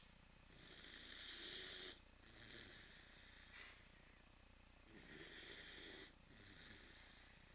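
Northern Inuit dog snoring in its sleep: two slow breaths, each a louder, airy snore followed by a softer one, about four seconds per cycle.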